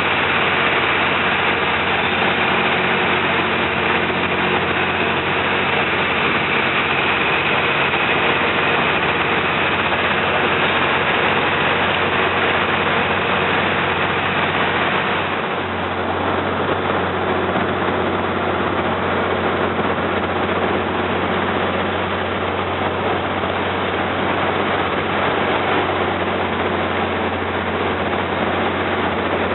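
The diesel engine of a Laotian river slow boat runs steadily with a constant low drone, over a thick rush of water and wind noise. The sound changes abruptly about halfway through, then settles into a similar steady drone.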